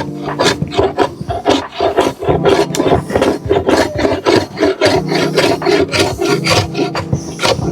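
A hand tool rasping across wood in quick back-and-forth strokes, about three a second.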